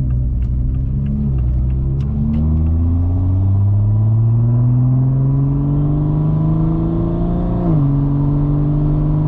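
2021 Toyota Supra engine with a muffler delete and downpipe, heard from inside the cabin, accelerating in sport mode. Its pitch drops with an upshift about a second in, climbs steadily for several seconds, then drops with another upshift near the end and holds.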